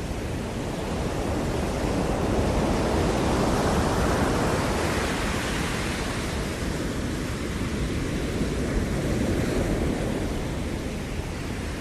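Ocean waves breaking on the shore. The surf swells over the first few seconds, is loudest around four to five seconds in, then eases back into a steady wash.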